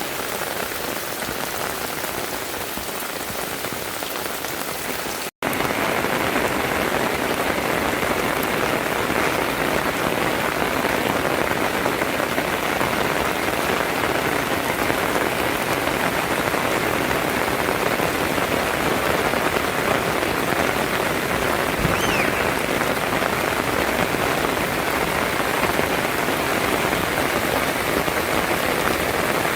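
Heavy rain falling steadily in a dense, even hiss. About five seconds in it drops out for an instant, then comes back louder and brighter.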